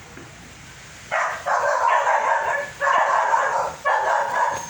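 A dog barking in repeated runs of barks, starting about a second in, with low background noise before it.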